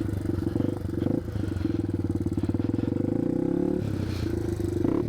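1987 Yamaha TW200's single-cylinder four-stroke engine running steadily under way, its note shifting about four seconds in.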